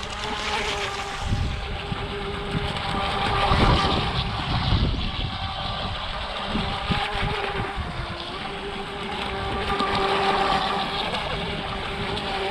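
Brushed electric motor of a Carrera Profi Speedray RC hydroplane whining as the boat runs across the water, its pitch shifting a little with the throttle over the hiss of the hull on the water. A few low rumbles swell up around four seconds in.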